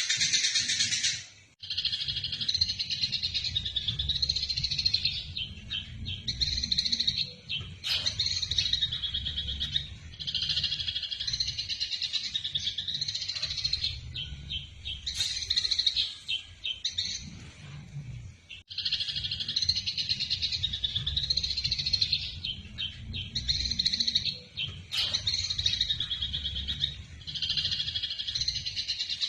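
Eurasian tree sparrows chirping rapidly in dense bouts of a few seconds each with short breaks between them: the excited chatter of sparrows fighting. A low hum runs underneath.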